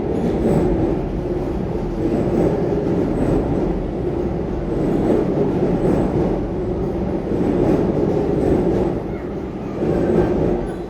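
Electric commuter train running along the platform: a steady rumble of wheels on rail with faint, regularly repeating clicks.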